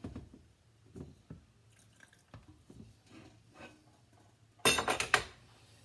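Glass canning jars being filled with sauce in a kitchen: a few soft knocks and drips, then a brief, loud clatter of a utensil against glass and cookware about five seconds in.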